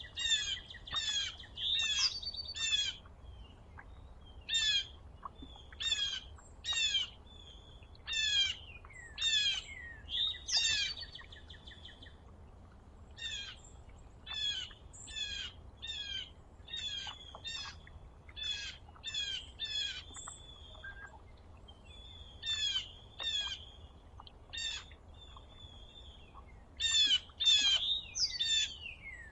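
Small songbirds chirping over and over, in quick bursts of short, high notes that slide downward.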